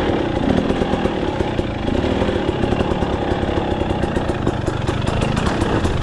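2023 KTM 300 XC TBI's two-stroke single-cylinder engine running at a steady, fast-pulsing note.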